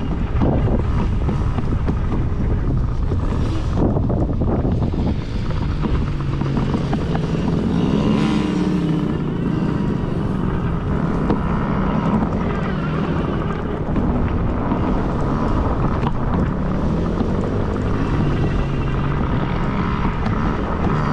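Dirt bike engines running and revving as the bikes ride the track, the engine note rising and falling, with heavy wind noise on the microphone.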